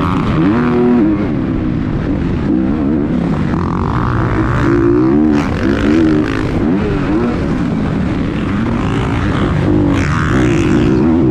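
Several motocross dirt bikes racing on a track, their engines revving up and down over and over as they accelerate, shift and back off.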